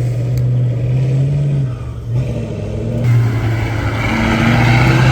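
Heavy truck-trial truck's diesel engine pulling under load. It eases off briefly about two seconds in, then builds again and gets louder toward the end.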